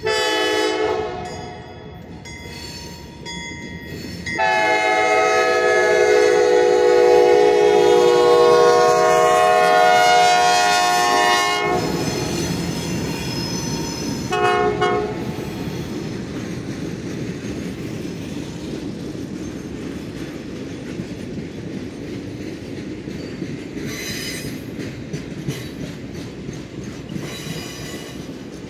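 Arkansas & Missouri diesel locomotive 44's multi-note air horn sounding for the grade crossing: a blast, then a long blast of about seven seconds, then a short one. After that comes the diesel rumble of the passing locomotives and the steady rumble and clatter of the passenger cars' wheels over the rails, with two brief wheel squeals near the end.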